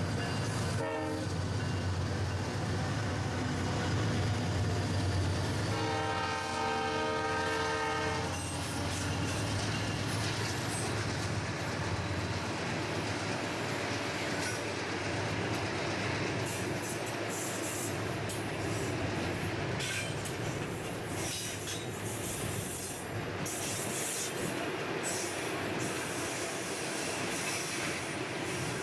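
Diesel freight train passing: the locomotive horn sounds a short blast at the start and then a chord for about two seconds, over the engine's steady low drone. The horn is followed by the rolling rumble of the wagons, with flickering wheel squeal.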